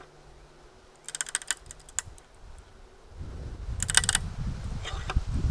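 An electronic component from a circuit board being handled and crushed. A cluster of sharp clicks and clatters comes about a second in, then from about three seconds a low grinding rumble builds, with sharp cracks.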